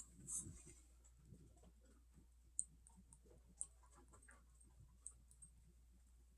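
Near silence broken by a few faint, scattered clicks and taps from the hot sauce and the broccoli salad container being handled.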